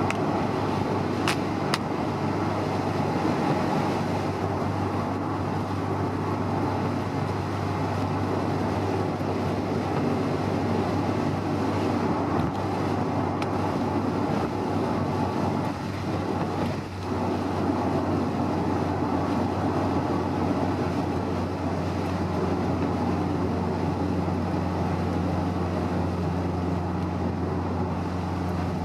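Honda S2000 driving at a steady speed, heard from inside the car: an even engine drone under road and wind rush, briefly dipping in loudness about halfway through.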